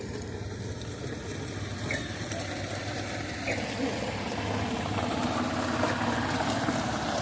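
Steady low hum of an engine running, with a rushing noise that grows a little louder in the second half.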